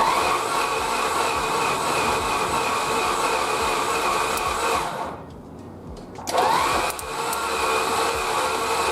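The 1969 Chrysler Newport's engine being cranked over by its starter motor in a steady, even whine during a compression test. It stops about five seconds in and starts again a second later, spinning up. The engine has very low compression: on this cylinder the gauge doesn't move.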